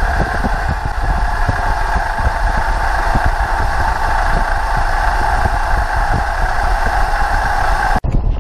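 Toyota Corolla's 1.8 L 1ZZ-FE four-cylinder engine idling steadily, with a low rumble; the sound cuts off abruptly near the end.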